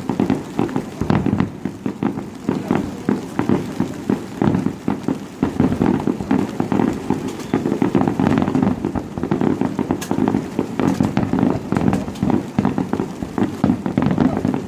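Fireworks display going off in a dense, continuous barrage of bangs and crackles, several a second without a break.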